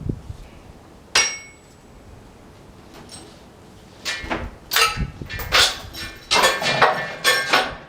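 Steel log chain clanking and rattling as it is unhooked and pulled off the log: one sharp ringing clank about a second in, then a quick run of clanks and rattles from about halfway.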